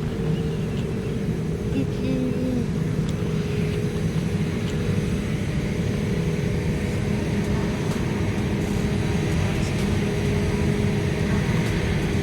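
Steady drone of an airliner's jet engines, the Air Austral Boeing 787-8, running at low power on the ground, with a constant low hum and rumble. A higher hiss swells slightly near the end.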